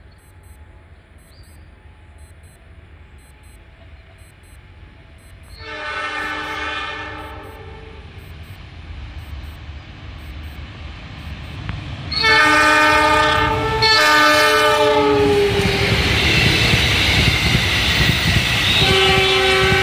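Passenger train's diesel locomotive running through the station at speed, sounding its horn: one blast about six seconds in, then a longer two-part blast at about twelve seconds as it draws near. Then the loud rush of the coaches' wheels passing close on the rails, with one more short horn blast near the end.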